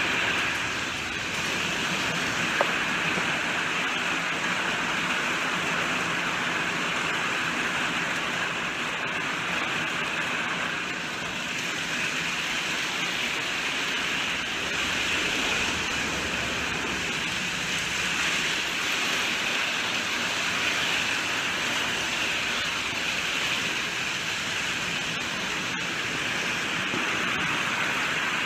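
Steady rainfall, an even hiss of rain that holds level, with one short sharp click a few seconds in.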